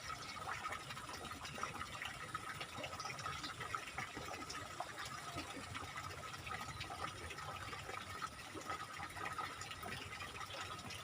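Water running steadily in a small drainage ditch, an even rushing sound with a faint steady high tone underneath.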